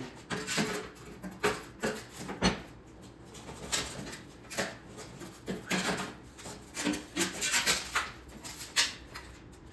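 Irregular knocks and scrapes of a sheet-metal floor pan patch being handled and test-fitted, a few sharp contacts a second with short pauses between.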